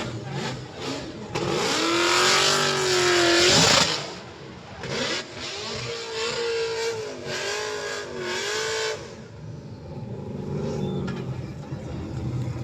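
Car engines revving hard, their pitch climbing and dropping. The loudest spell is about one to four seconds in, with a second bout from about five to nine seconds, then a lower engine sound to the end.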